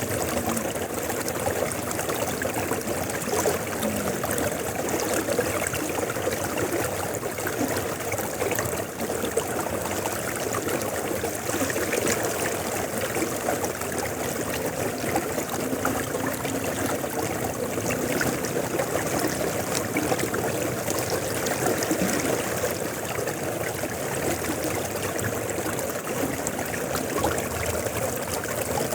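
River water flowing and splashing over stones: a steady, continuous rush with bubbling and trickling detail.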